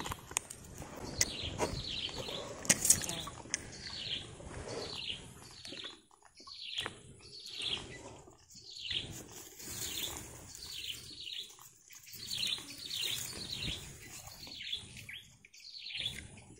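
A bird calling over and over: short, high notes that sweep downward, about one or two a second, over low rustling.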